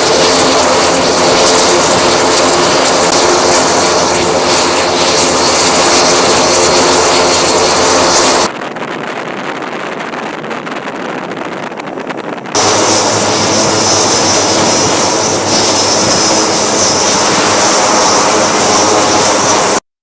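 KJ-600's turboprop engines running loud and steady on the carrier deck, a dense roar with a propeller hum. About eight seconds in the sound drops sharply and comes back about four seconds later, then cuts off suddenly just before the end.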